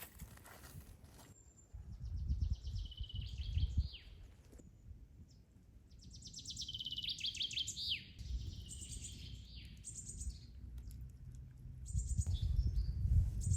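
A songbird singing three phrases, each a fast run of repeated high notes ending in a downward sweep, with a low rumble underneath.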